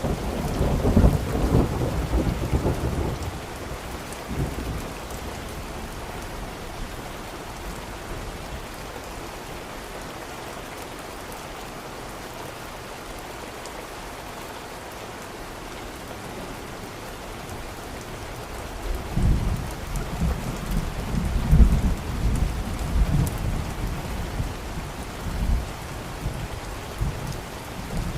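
Steady rain falling, with two long rolls of thunder: one rumbling over the first few seconds, and another starting about two-thirds of the way in and lasting several seconds.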